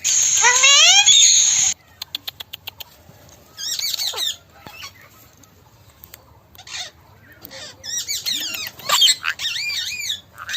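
A group of Indian ringneck parakeets calling: loud, harsh rising screeches for the first second and a half, then a quick run of clicks, followed by scattered shorter chattering calls that pick up again near the end.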